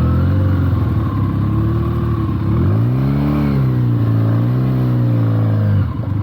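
Benelli TNT 300's parallel-twin engine running under throttle, its revs rising and falling twice as the bike is ridden, then dropping back to a low, uneven rumble near the end as the throttle closes.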